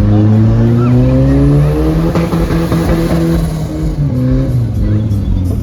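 Car engine accelerating hard, its pitch climbing and then dropping about two seconds in as it shifts up, then pulling on and easing off near the end.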